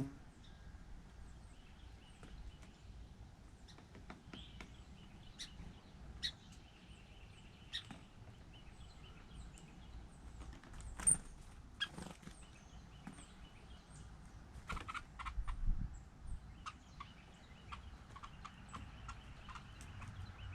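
Wild birds at a seed bowl: scattered short chirps and sharp clicks, with a few louder calls around the middle.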